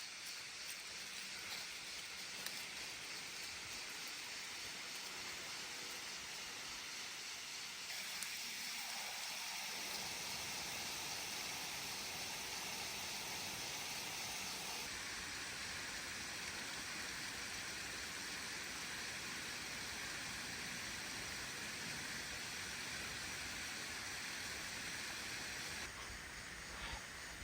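Steady rushing-water hiss of a stream or waterfall, changing abruptly in strength and tone several times as the shot changes.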